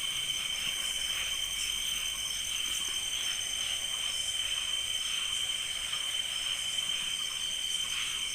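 Steady night-time chorus of crickets and other insects, several continuous shrill trills at different pitches layered over one another without a break.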